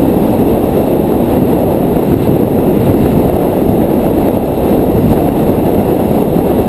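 Wind rushing over the microphone of a camera carried on a moving bicycle: a loud, steady low rumble.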